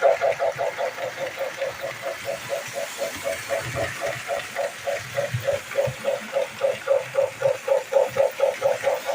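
A bell ringing rapidly and steadily, about five strikes a second.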